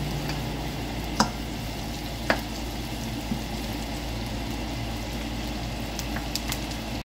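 Pork belly, onions and sausage sizzling steadily as they sauté in an oiled wok. A few sharp clicks come from the spatula stirring against the pan, twice in the first few seconds and several more near the end.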